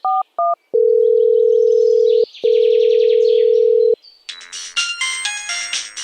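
Telephone keypad tones as the last digits are dialled, then a steady ringing tone sounding twice for about a second and a half each. A musical tune starts about four seconds in.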